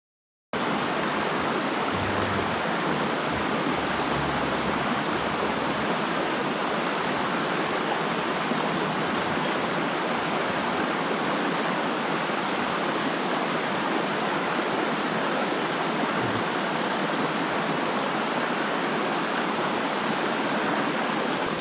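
Heavy rain falling, a steady, even hiss that starts abruptly about half a second in.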